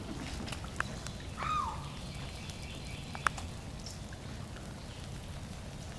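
Outdoor ambience with a steady low rumble, a short falling chirp about a second and a half in, and a sharp click just after three seconds.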